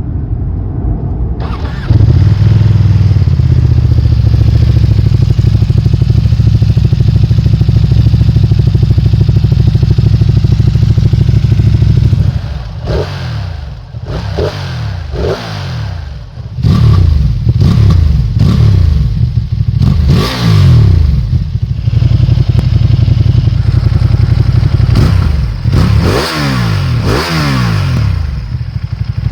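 2022 Ducati Streetfighter V2's 955 cc Superquadro V-twin through its stock exhaust: it comes up to a steady idle about two seconds in, then is revved in a series of quick blips, each rising sharply and falling back.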